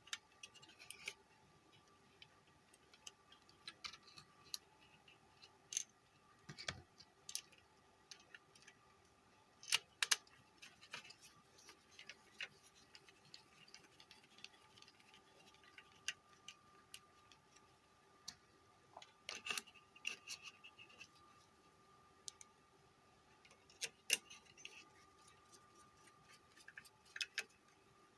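Scattered small clicks, taps and short scrapes of hand tools and metal parts being handled on a workbench, as a car stereo amplifier IC is screwed down to its heat sink. A faint steady hum runs underneath.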